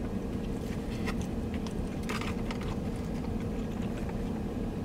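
A man quietly chewing a mouthful of sushi, with a few soft mouth clicks, over a steady low hum inside a car cabin.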